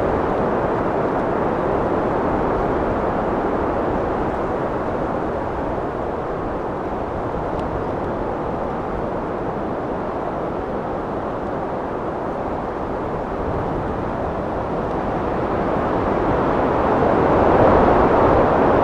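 Wind blowing steadily as a broad rushing noise, easing slightly midway and then swelling louder in a gust near the end.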